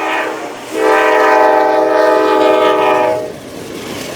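Train's air horn sounding a chord of several notes: a short blast, then a long steady blast of about two and a half seconds that stops about three seconds in, leaving a lower rumble.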